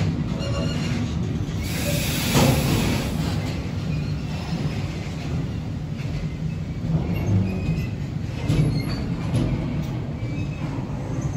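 Freight train of covered sliding-wall wagons rolling past: a steady rumble and rattle of wheels on the rails, with brief high wheel squeals, a louder surge about two seconds in and a few sharp clacks later on.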